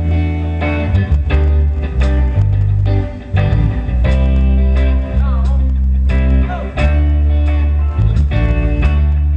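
Live pop band playing a song at a sound check: electric guitar and bass guitar over a steady beat.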